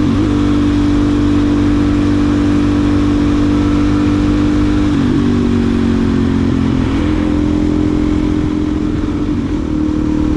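Suzuki DR-Z400SM's single-cylinder four-stroke engine, fitted with a new exhaust tip, running steadily as the motorcycle is ridden, with brief changes in pitch about five, seven and nine seconds in.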